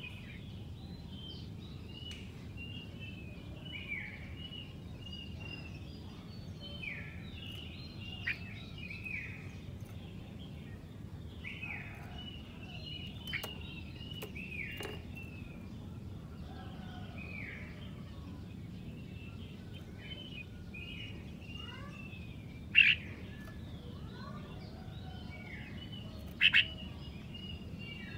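Red-whiskered bulbuls singing: a run of short chirping and warbling phrases, with two much louder sharp calls near the end, over a steady low background rumble.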